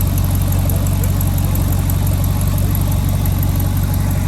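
A car engine running steadily at an even speed, a low pitch with no change in revs.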